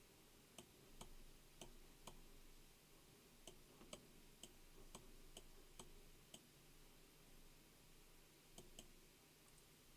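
Faint clicks of a computer mouse over near silence: about a dozen single clicks, irregularly spaced at one to two a second, a pause, then two quick clicks near the end.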